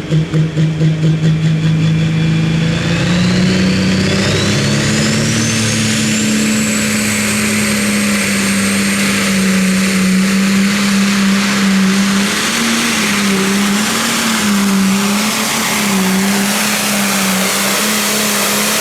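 A Pro Stock pulling tractor's turbocharged diesel engine under full power on a pull. The engine pulses at first, then a turbocharger whine climbs steeply and holds high. The engine note wavers up and down over the last few seconds.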